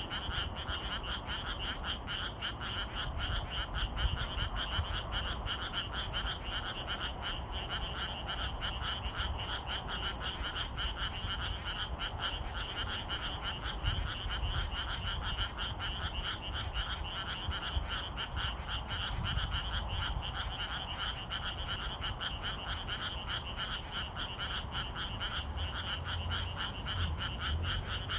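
Chorus of many frogs calling at once: a dense, steady mass of rapid croaking pulses that never lets up.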